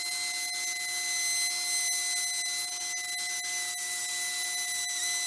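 Handheld power sander running steadily with a high whine and hiss, sanding down a cured resin coat. A lower steady motor hum runs underneath.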